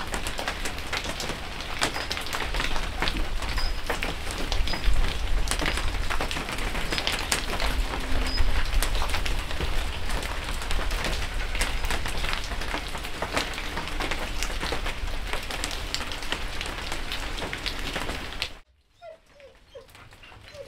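Rain pattering on the shelter's roof: a dense hiss of many separate drop clicks with a low rumble underneath. It cuts off suddenly near the end, leaving only a few faint short squeaks.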